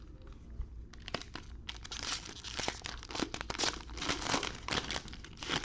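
Wrapper of a trading card pack crinkling and tearing as it is torn open by hand, in scattered crackles at first and then a dense run of crinkling.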